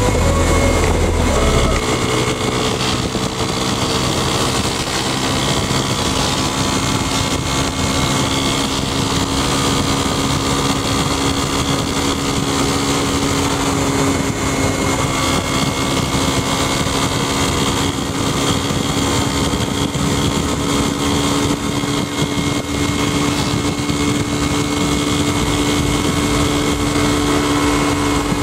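Honda CB300 single-cylinder motorcycle engine running at a steady, nearly constant pitch while riding, with a deeper rumble that drops away about two seconds in.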